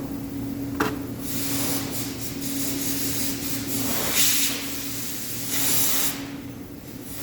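Arc welding: a crackling hiss that comes and goes in stretches of a second or more, over a steady electrical hum, with one sharp click about a second in.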